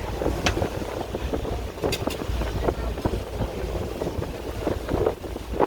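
Wind buffeting the microphone aboard a moving boat: a steady low rumble with scattered short knocks.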